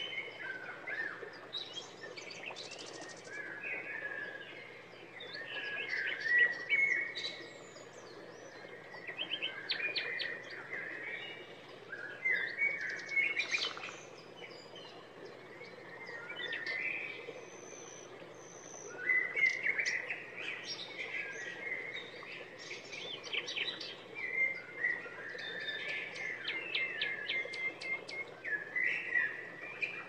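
Several birds chirping and singing in short, repeated phrases and trills, in clusters every few seconds, over a faint steady hiss.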